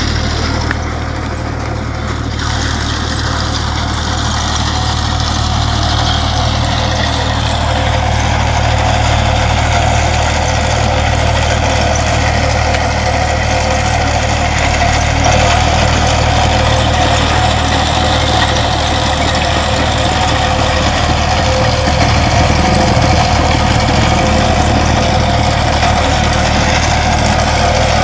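Engine of a trench-digging excavator running steadily throughout, a constant low drone.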